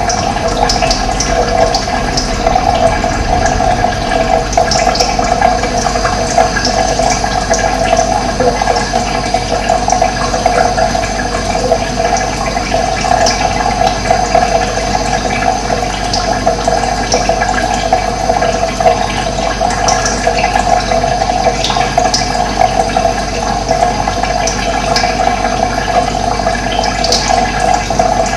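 Running water, a steady rushing flow, with short high bird chirps scattered over it.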